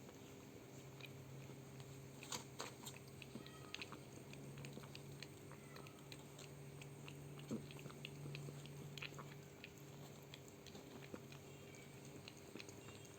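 Faint, irregular wet clicking and chewing mouth sounds from a mother cat just after giving birth, over a low steady hum.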